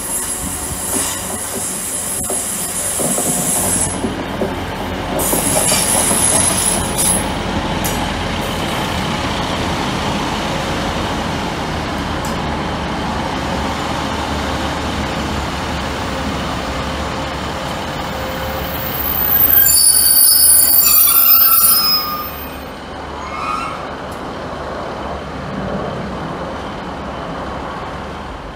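Northern Rail passenger train running along the track, a steady rumble of wheels on rail. Thin high wheel squeals come in the first few seconds, and a louder burst of several squealing tones follows about two-thirds of the way through.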